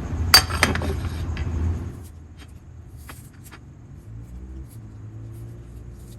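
A loud steady rushing noise with a few sharp clatters stops abruptly about two seconds in. Then come scattered light knocks of a knife cutting spring onions on a chopping board, over a low hum.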